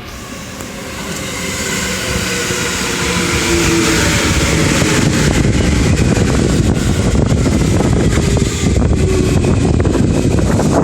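Running noise of a Yokohama Line electric train heard from inside the cab end: wheel and motor noise with a faint hum, growing louder over the first few seconds and then holding steady.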